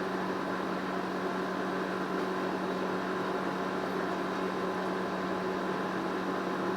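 Steady mechanical hum with a few constant tones and no breaks.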